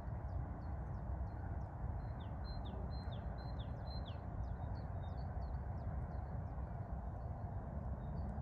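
Small birds chirping over a steady low rumble, with a quick run of four high notes, each dropping in pitch, between about two and four seconds in.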